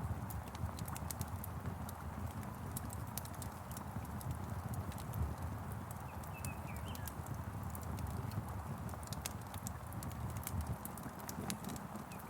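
Crackling log fire: frequent sharp pops and snaps over a steady low rumble and hiss, with a few brief bird chirps about six and a half seconds in.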